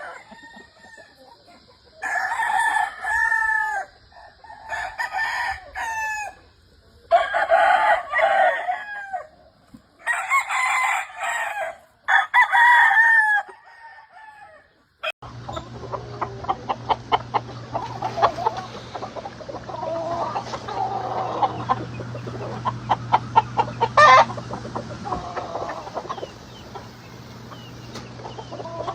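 Gamefowl roosters crowing, about five crows one after another; about halfway through the sound changes abruptly to chickens clucking over a steady low hum.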